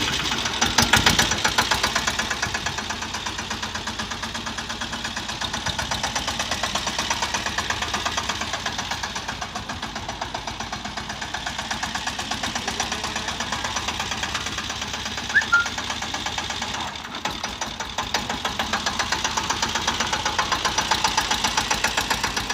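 Three-wheel mini tractor's engine running with a steady, rapid knocking beat. The sound dips briefly about seventeen seconds in.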